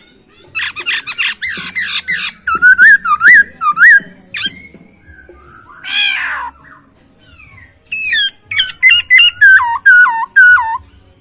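Black-throated laughingthrush (Hong Kong poksay) in full song. It gives a harsh chattering burst, then a run of loud looping whistles and a long falling note. Near the end comes another quick series of about a dozen loud, rising-and-falling whistled notes.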